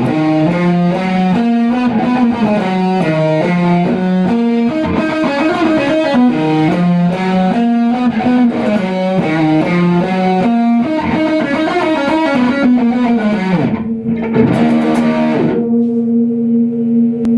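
Electric guitar through effects, picking a repeating riff of quick, changing notes. Near the end the riff stops and a held chord rings on.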